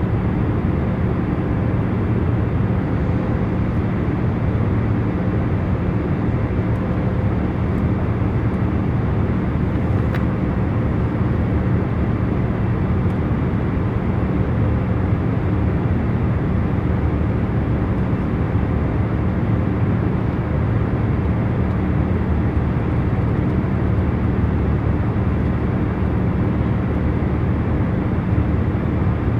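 Steady in-flight airplane cabin noise: a low, even rush of air and engine hum with a few faint steady tones.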